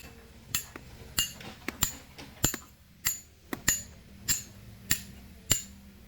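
A hammer striking a steel chisel or wedge to split stone by hand, with ringing metal-on-metal strikes in a steady rhythm of about one and a half blows a second.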